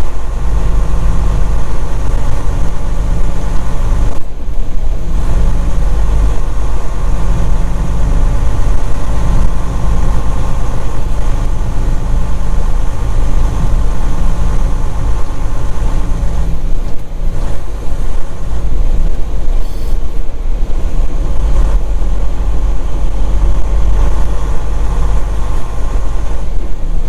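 Semi truck's diesel engine running steadily with a deep, constant hum.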